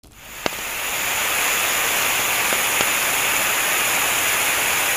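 Steady hissing noise, fading in over the first second, with a sharp click about half a second in.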